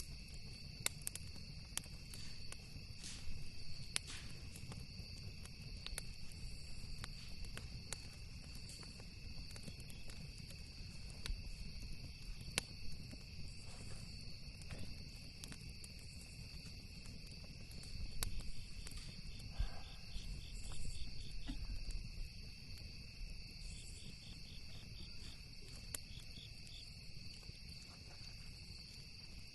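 Campfire crackling with scattered sharp pops, over a steady high trilling of crickets and other insects, with chirping pulses in the second half. A low rumble sits under it all.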